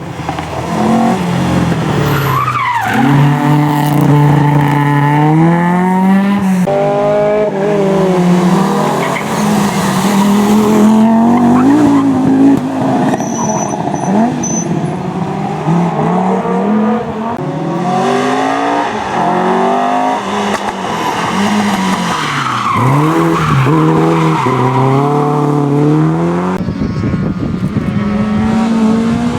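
Rally car engines revving hard, the pitch climbing through each gear and dropping at the changes, over and over.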